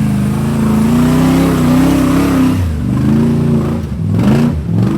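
Off-road 4x4's engine revving hard while rock crawling: the revs hold fairly steady, then rise and fall in quick blips during the second half.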